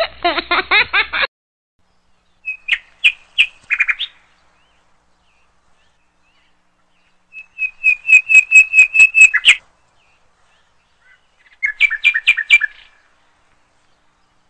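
A small bird chirping in three bursts of quick repeated high chirps, the middle burst the longest at about two seconds. A brief laugh or voice is heard in the first second.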